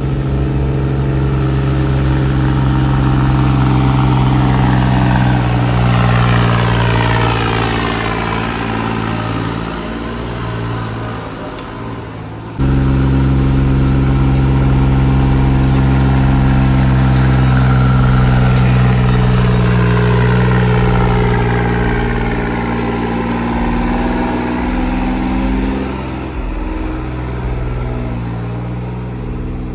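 A vehicle engine running steadily at close range, a low pulsing throb with a steady hum; the sound cuts abruptly to a fresh stretch of the same engine about twelve seconds in.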